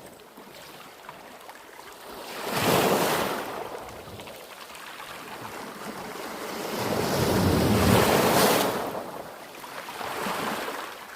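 Waves washing in, a rushing noise that swells and fades three times; the second surge, about halfway through, is the longest and loudest.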